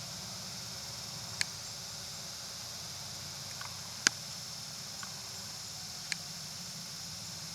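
Inside a city bus: the engine runs with a steady low hum under a constant high hiss. Three sharp clicks or rattles are heard, about one and a half, four and six seconds in; the one about four seconds in is the loudest.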